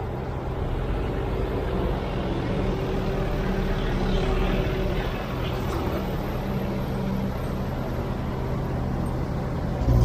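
Diesel engine of a Kobelco SK200-10 hydraulic excavator running steadily at work, with a steady low pitch and a little more noise about four to five seconds in.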